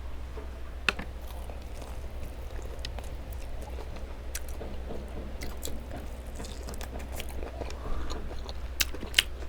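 Close-up biting and chewing of chicken wings, with scattered sharp crunches and mouth clicks, over a steady low hum.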